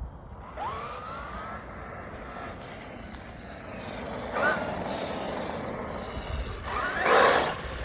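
Traxxas XRT RC truck's 12S, 1100 kV belt-driven brushless motor whining as it is driven in bursts: a short rising whine about half a second in, another burst about four and a half seconds in, and the loudest burst near the end.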